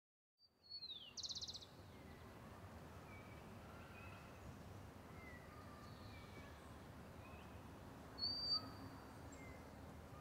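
Small birds calling faintly over a steady outdoor background hiss: a falling whistle and a quick rapid trill about a second in, scattered short chirps throughout, and a clearer high whistled note near the end.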